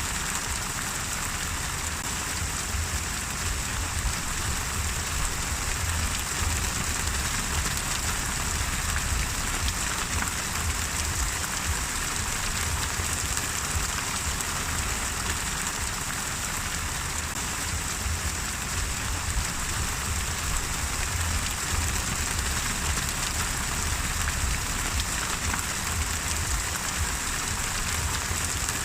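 Steady rain falling, a continuous even patter without pauses, with a low rumble underneath.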